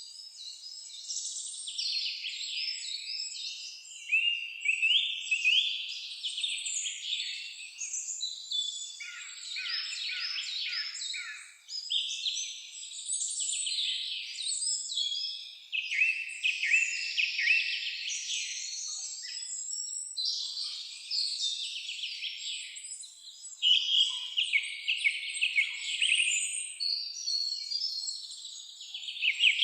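A chorus of songbirds singing over one another, a busy, unbroken run of high chirps and rapid trills.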